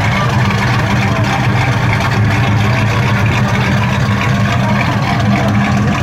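V8 muscle car engine running steadily at low revs, a loud, even low-pitched engine note.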